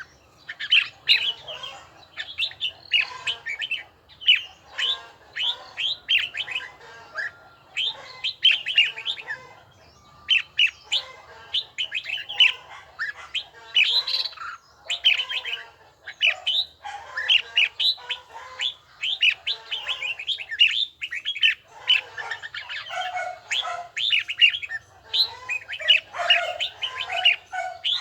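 Red-whiskered bulbul singing: a steady run of short, quick phrases, one after another with brief pauses.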